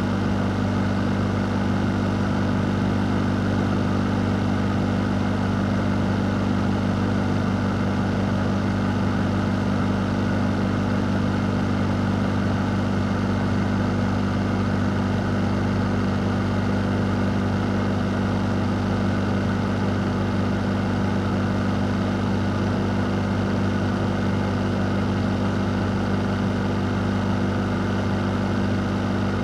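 Fan running steadily: an even rush of air over a constant low motor hum.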